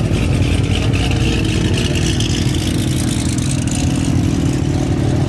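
Loud high-performance car engine running steadily at low revs.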